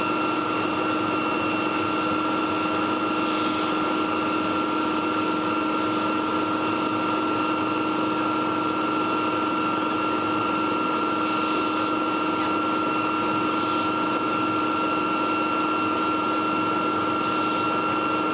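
Helicopter in flight, heard from inside the cabin: a steady engine-and-rotor drone with a few constant whining tones above it.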